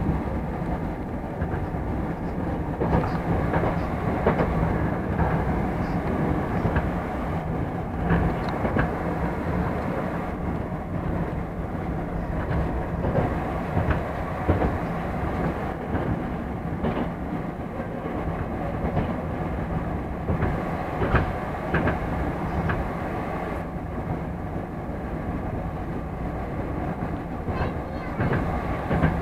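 Moscow Metro "Moskva" electric train running at speed between stations, heard inside the car: a steady rumble and hum with irregular clicks and clatter from the wheels on the track.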